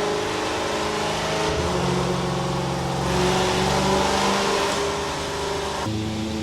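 S65 V8 engine of a BMW 1M rally car running with a steady note that steps up in pitch about a second and a half in and shifts abruptly near the end.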